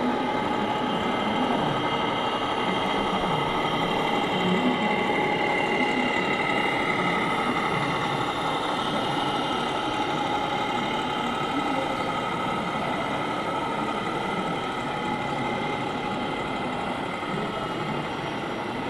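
Radio-controlled scale model trucks running: a steady mechanical whine and engine-like hum with several held tones, over the murmur of a crowd.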